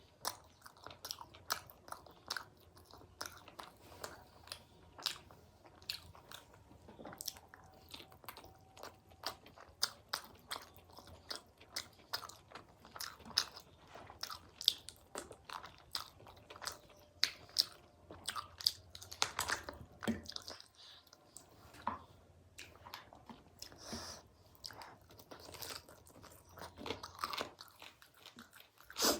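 A person chewing and biting food close to the microphone, with many irregular crunches. This is mukbang-style eating of a meal of chicken karahi and fries.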